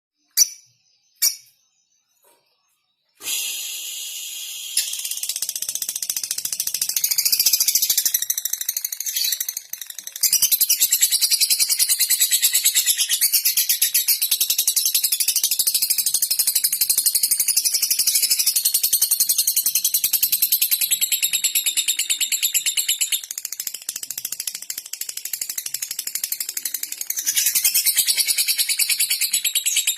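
Lovebird singing a rapid, high-pitched ticking chatter, the 'ngetik' song used to lure other lovebirds into chattering. It begins about three seconds in after two short chirps and goes on almost without a break.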